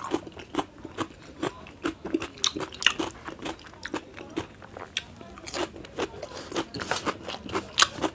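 A person chewing raw cucumber slices with rice, mouth close to the microphone: a steady run of crisp crunches, two or three a second.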